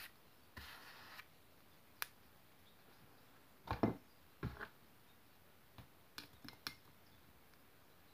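Scattered light knocks and clicks of objects being handled, with a short scratchy rustle about half a second in; the loudest knocks come about four seconds in, and a quick cluster of small clicks follows near the end.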